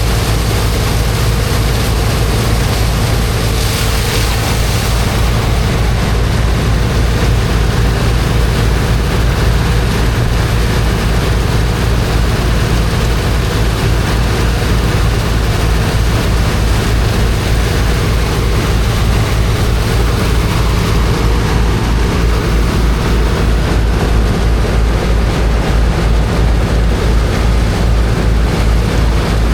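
Engine of a high-pressure water pump running steadily with a low, even throb, under the hiss of its water jet; the hiss briefly swells about four seconds in.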